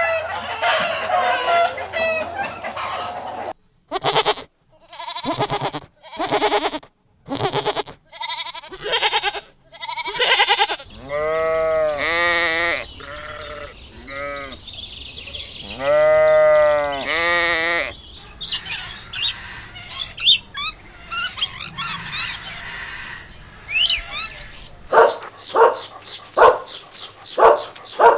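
Sheep bleating: a run of short calls, then several long bleats that rise and fall in pitch. These are followed by high chirping and, near the end, a string of short sharp calls.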